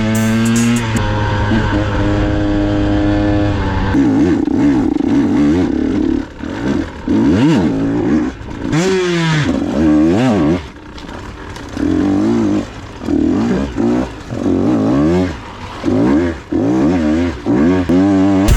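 KTM 125 XC's 125cc two-stroke engine. It runs steadily for the first few seconds, then revs up and down over and over, with frequent brief drops as the throttle is opened and closed while the dirt bike is ridden.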